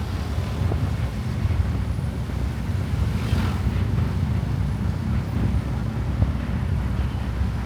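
Wind buffeting the microphone of a moving motorcycle, a steady low rumble, with the motorcycle's running and its tyres on wet road underneath.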